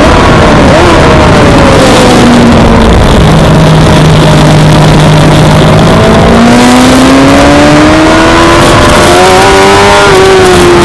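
Suzuki GSX-R600 inline-four racing motorcycle engine heard on board at full scale over wind noise. The revs drop about two seconds in, hold low and steady for a few seconds, then climb steadily as it accelerates, with a small dip near the end.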